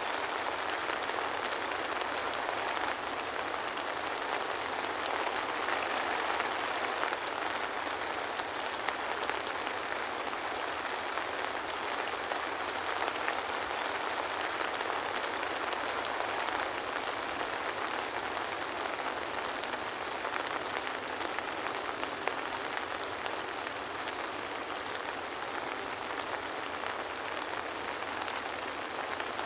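Steady soft rain falling, an even hiss of many small drops with faint scattered pattering and no thunder.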